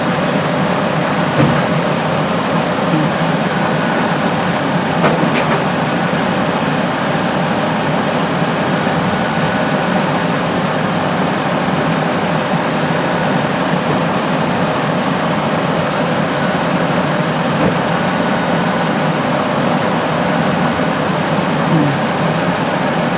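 The 2002 Dodge Grand Caravan's 3.8-litre V6 engine idling: a steady, even running sound that holds unchanged throughout.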